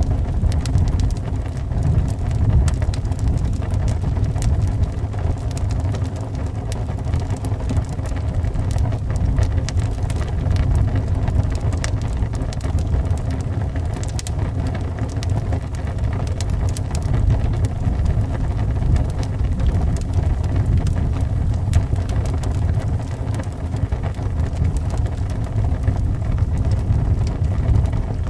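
Wood fire crackling with frequent small, sharp pops over a steady low rumble of howling wind.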